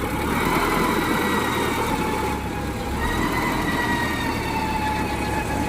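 Truck engine running with the cab tilted open, a steady low engine note with a thin whine held over it; it runs fast even without the throttle pressed.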